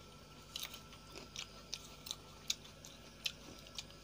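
Fresh coconut flesh being bitten and chewed: faint, irregular crisp crunches.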